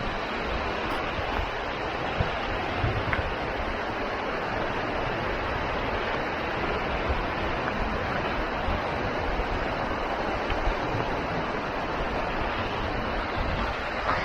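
Waterfall rushing with a steady roar of falling water.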